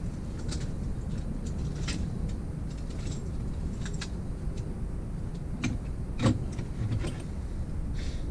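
Scattered light clicks and taps of metal engine parts and hand tools being handled during an engine teardown, with one louder knock about six seconds in, over a steady low background rumble.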